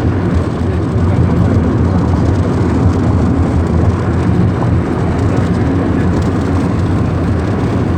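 Steady road noise of a Lada Kalina 2 estate driving: a continuous low rumble of engine and tyres with no distinct events.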